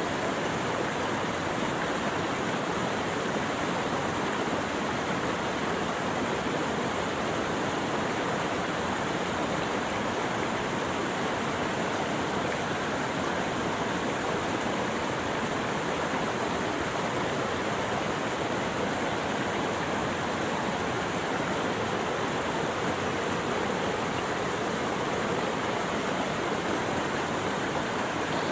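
Steady rushing water, an even unbroken rush with no birdsong or other sounds over it.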